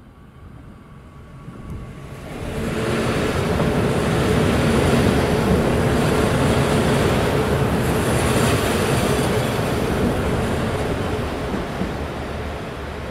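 A train passing close by: its noise swells over about two seconds, stays loud with a steady running tone for several seconds, then fades near the end.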